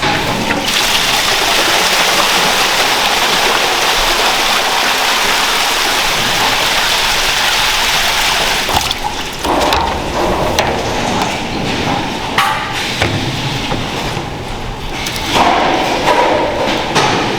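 Water running hard, a steady rush like a spray hose or open tap, for about eight seconds. Then it drops away to clattering and knocks of handled equipment or trays.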